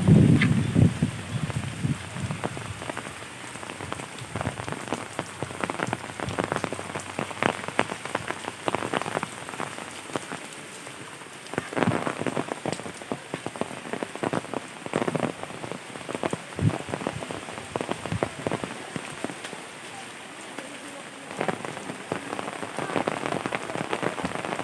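Rain falling steadily, with many separate drops striking hard and close at irregular moments. A louder low knock comes right at the start.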